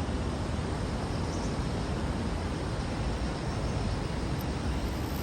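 Steady outdoor background rumble, heaviest in the low end, with no distinct events.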